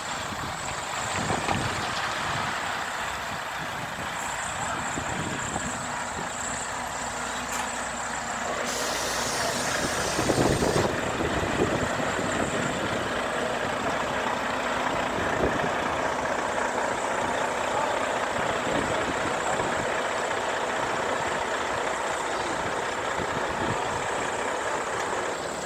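Heavy trucks running by in a slow procession: a steady mix of engine and road noise. A two-second hiss of air, typical of an air brake, comes about nine seconds in.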